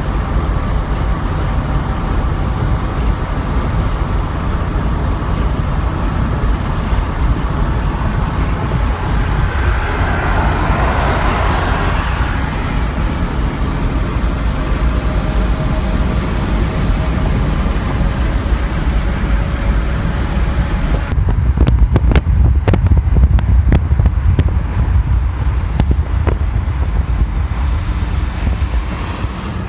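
A vehicle on the move: steady road and engine noise with wind blowing on the microphone. The wind buffeting gets heavier and crackly in the last third.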